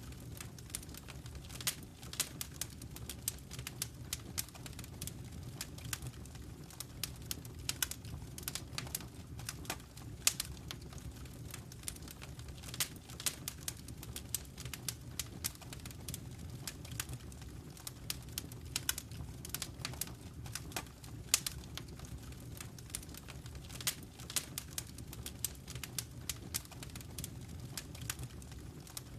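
Wood fire crackling in a fireplace: frequent, irregular sharp pops and snaps over a steady low rumble of the burning fire.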